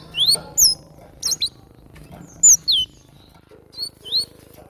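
Wild cinereous tit (glatik batu) singing: short, sharp whistled notes, many sliding down in pitch, delivered in quick pairs and small groups with brief pauses between.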